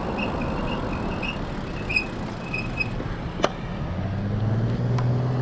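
Wind and road noise while riding a road bike, with a motor vehicle's engine hum coming up from about four seconds in and holding steady.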